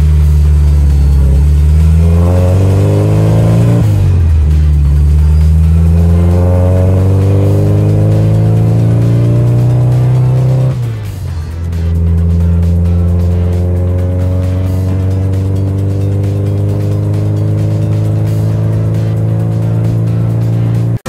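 Classic Mini's A-series four-cylinder engine heard from inside the cabin, accelerating up through the gears: the engine note climbs, drops at a gear change about four seconds in, climbs again for several seconds, dips at a second change around eleven seconds in, then holds steady at cruising speed.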